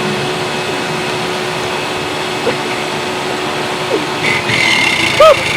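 Hoover Dimension Supreme upright vacuum cleaner running with a steady hum; about four seconds in a high whine sets in, a noise the machine is not supposed to make. A short, sharp pitched squeak near the end is the loudest moment.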